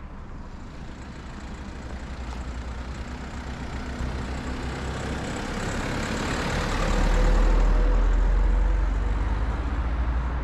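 A motor vehicle drives past. The tyre and engine noise swells to its loudest about seven to eight seconds in, then eases off.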